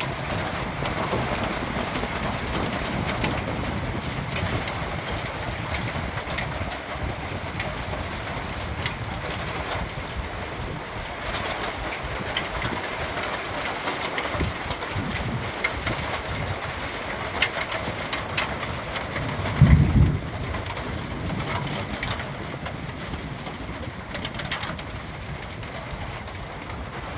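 Steady rain falling, with scattered drips and patters, and a brief low thump about twenty seconds in.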